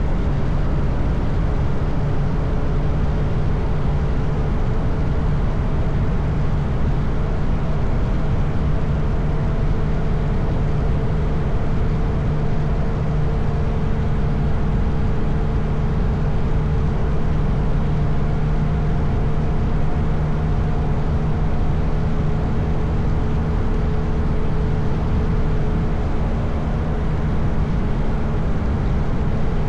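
Motorcycle cruising at a steady speed: the engine runs at an even, unchanging pitch under a loud rush of wind noise.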